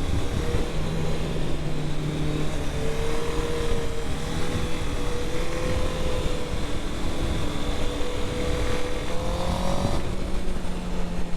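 Honda CB650R inline-four running through an IXIL Hyperlow XL aftermarket exhaust, cruising at steady revs with wind and road rush; the engine note climbs a little near the end.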